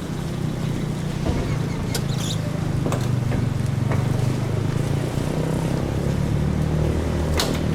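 A motor running steadily with a low hum, with a few light clicks and knocks over it.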